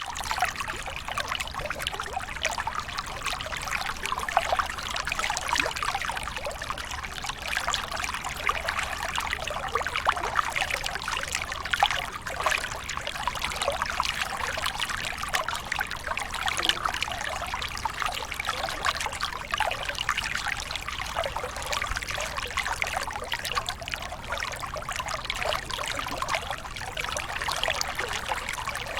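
Running water splashing and trickling steadily, a dense, even rush full of small splashes.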